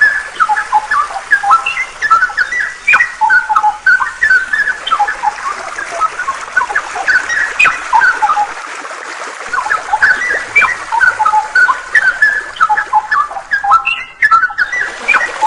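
A songbird singing a rapid run of short chirping notes, over a steady rush of flowing water. The song pauses briefly about halfway through and cuts out for a moment near the end.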